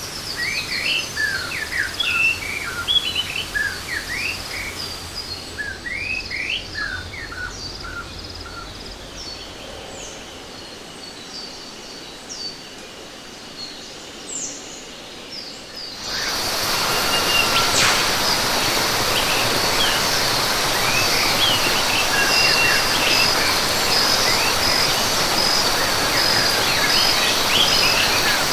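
Rainforest ambience: many birds chirping in quick short calls, thinning out over the first half. About halfway through, a loud, even rush of falling water cuts in abruptly, with a high pulsing insect trill and more bird calls over it.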